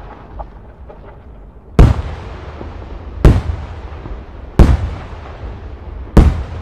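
Italian multi-break aerial firework shells bursting overhead. There are four loud bangs about a second and a half apart, each trailing off in a rumbling echo.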